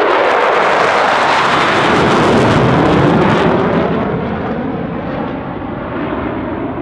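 Jet aircraft flying past, loud engine noise that loses its high hiss and fades a little about halfway through as the jet moves away.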